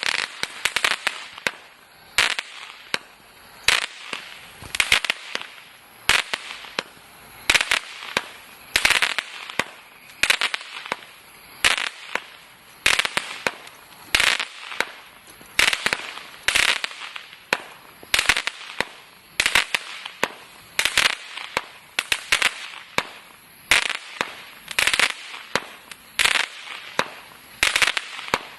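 Total FX 'Crackling Wood' firework going off: a volley about every one and a half seconds, each a quick run of sharp cracks, with fainter crackling in between.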